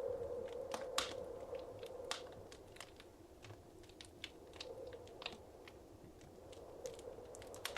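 Wood fire crackling in a fireplace: irregular sharp pops and snaps over a soft hiss of burning.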